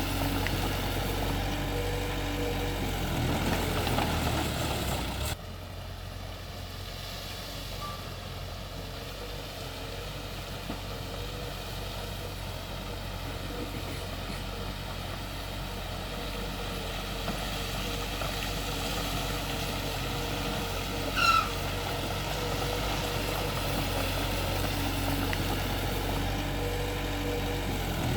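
Heavy construction machinery engines running steadily. The sound drops abruptly in level about five seconds in, and a short rising squeal cuts through about three quarters of the way in.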